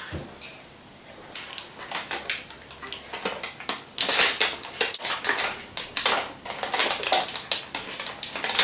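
Lard, oats, bird seed and flour being squished and mixed together by hand in a bowl: irregular gritty, crunchy rustles that get busier and louder about halfway through.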